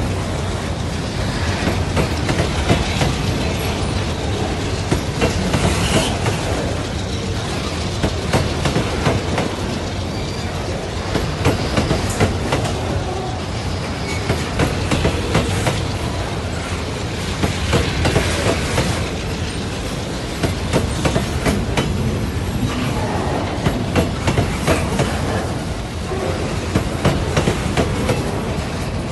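Freight train of fertilizer wagons rolling past: steady wheel-and-rail rumble with a continual clickety-clack of wheels over the rail joints.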